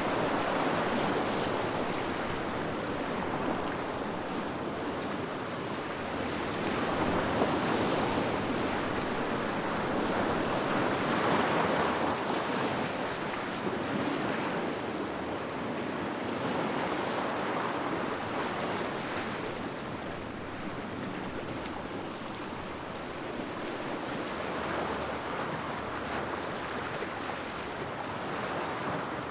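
Sea waves on a shore: a continuous rush of surf that swells and falls back every several seconds as waves break and wash in.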